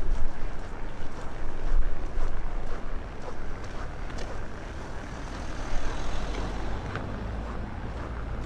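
Strong wind buffeting the microphone in a windstorm: a gusting low rumble over a steady rushing hiss, heaviest in the first few seconds and easing after. The microphone's cheap windshield cannot keep the gusts out.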